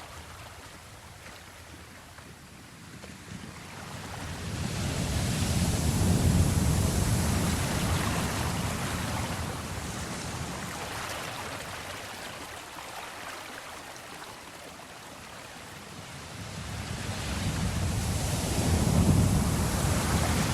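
Ocean waves washing ashore: two slow swells of surf, one building about four seconds in and ebbing, the next rising near the end.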